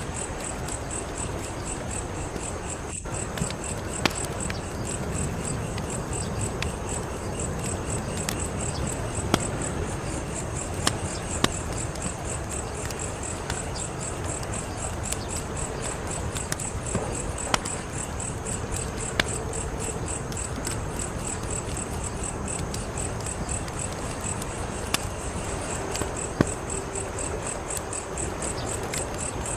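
Fire crackling, with scattered sharp pops every few seconds over a steady low rush, while crickets chirp in a fast, even pulse.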